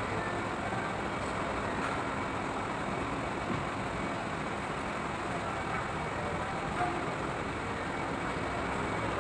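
Steady background rumble and hiss, like traffic or workshop ambience, with a few faint light clicks.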